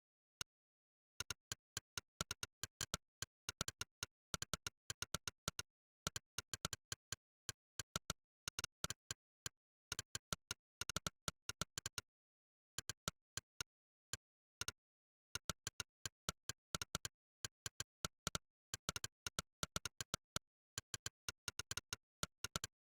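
Monkeytype's 'click' keypress sound effect: one short synthetic click per keystroke, in fast runs of typing broken by brief pauses, with dead silence between clicks.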